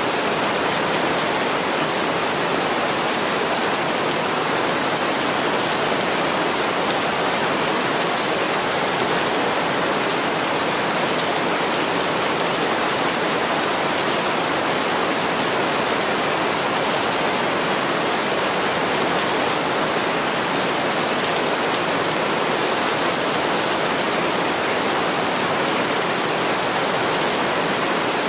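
Heavy rain falling steadily on a window glass: an even, unbroken hiss of water with no single drops or pauses standing out.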